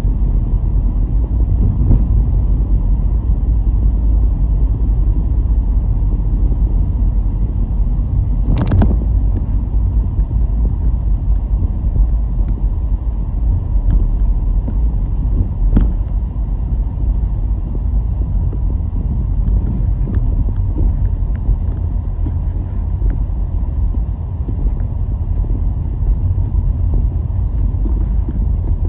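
Car on the move: a steady low rumble of road and engine noise, with a sharp knock about nine seconds in and a fainter one about halfway through.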